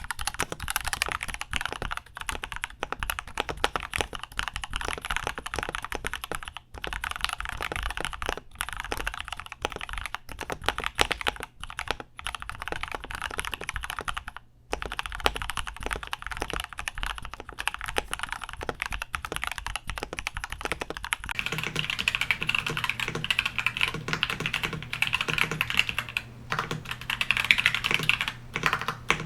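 Continuous fast typing on a mechanical keyboard fitted with Gateron Milky Yellow linear switches: a dense stream of key clacks, with a few short pauses. About two-thirds of the way through, the typing sound changes and becomes brighter and louder in the upper range.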